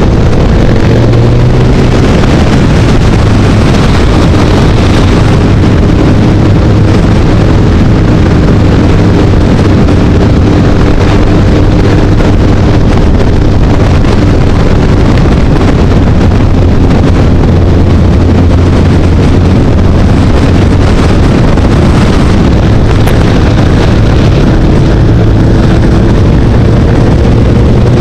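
Motorcycle engine running steadily at cruising speed, its pitch drifting slowly up and down, under heavy wind noise buffeting the microphone.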